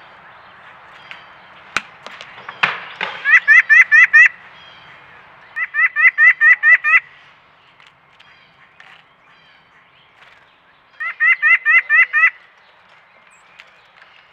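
White-breasted nuthatch calling: three quick runs of nasal notes, about seven a second, each run lasting about a second, with a couple of sharp knocks before the first run.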